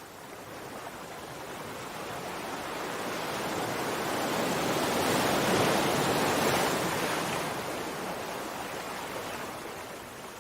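Sea waves: one slow surge of surf that builds to a peak about halfway through and then fades away.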